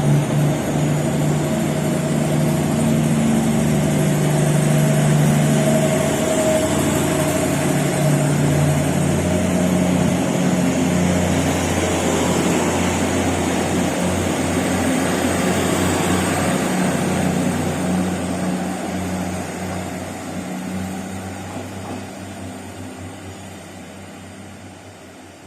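A train running through the station, a loud engine drone over rumbling wheels and rail noise, fading away over the last few seconds as it pulls off into the distance.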